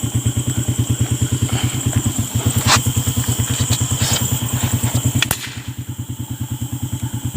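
A small engine running at a steady idle, a low throb of about ten beats a second. It drops somewhat in level after a sharp click about five seconds in.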